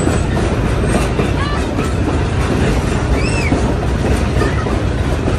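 Steam-hauled train running on the rails: a steady loud rumble of wheels on track, with a short rising-and-falling high squeal about three seconds in.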